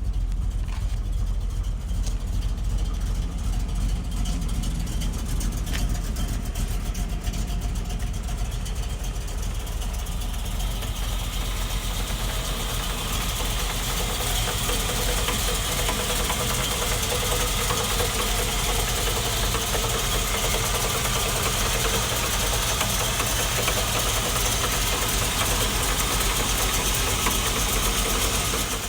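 1955 Chevrolet Bel Air's rebuilt 350 cubic-inch V8, fitted with headers and dual exhaust, running steadily. From about ten seconds in, a brighter hiss joins the engine sound.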